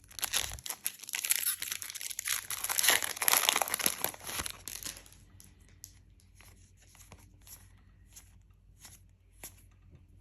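A trading-card booster pack wrapper being torn open and crinkled for about five seconds, followed by soft, scattered clicks of the cards being handled.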